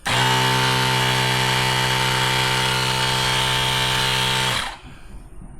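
Small electric air compressor running at a steady pitch for about four and a half seconds, starting and cutting off abruptly, inflating the motorcycle's rear tire.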